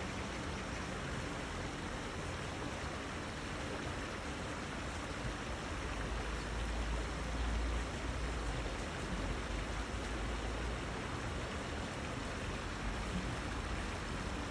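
Steady rush of water in a flowing stream, with a low rumble swelling for a few seconds in the middle.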